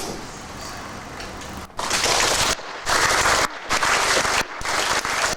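Audience clapping that sets in about two seconds in, heard through a harsh, poor-quality recording that cuts out briefly several times.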